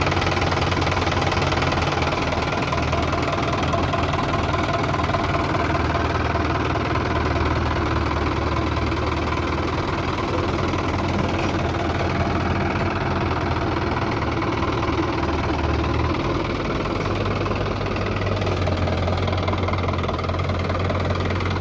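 Heavy diesel engine running steadily with a knocking clatter, its low note shifting about 16 seconds in as the load changes.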